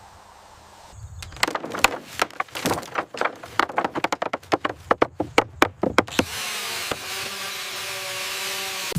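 Work with hand tools: a rapid, irregular run of sharp knocks and clatters, several a second, then from about six seconds in a steady rushing noise with a faint hum.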